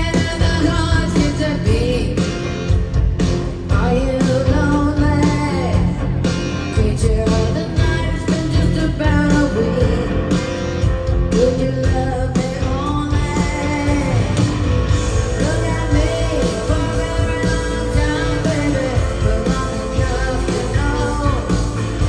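Rock band playing live with a woman singing lead over guitar, bass and drums.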